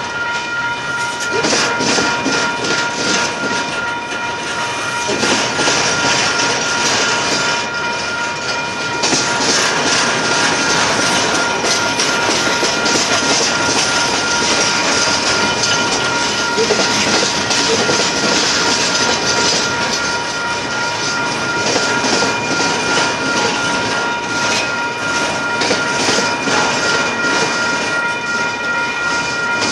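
Double-stack intermodal container cars rolling past at speed: a continuous rumble and rattle of steel wheels with rapid clickety-clack over the rail joints. A steady high whine runs underneath throughout.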